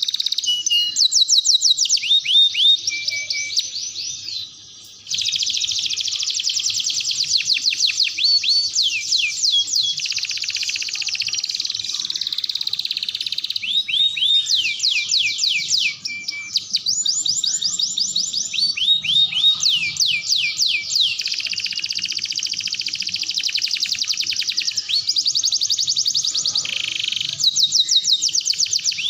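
Domestic canary singing a long, near-continuous song of rapid trills: rolls of quick downward-sweeping notes, with a brief break about five seconds in.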